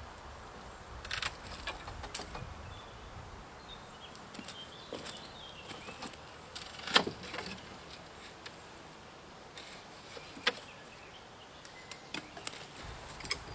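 Anvil lopper snipping through woody branches and bramble: a few sharp, separate cuts with rustling of brush between, the loudest about seven seconds in.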